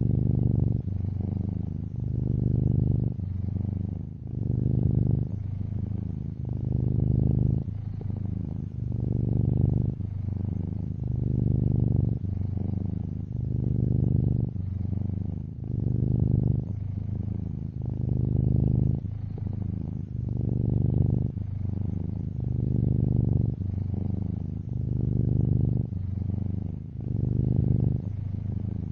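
Domestic cat purring steadily, with a low rumble that swells and eases with each breath, about every two seconds.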